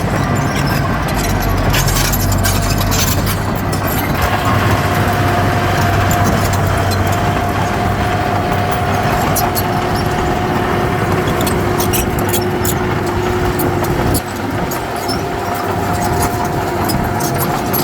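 Heavy earthmoving machinery at work: a diesel engine running under load with a steady high whine and scattered metallic clanks. The low rumble eases about fourteen seconds in.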